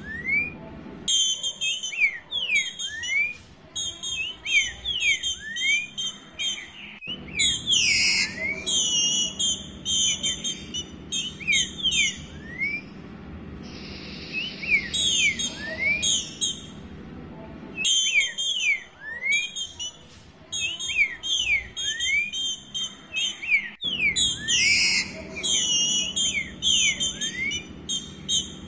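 Female green-winged saltator (trinca-ferro) giving its soliciting call, the call keepers use to stir up males: quick runs of short, high, upward-sweeping whistled notes, repeated in bouts with brief pauses between them.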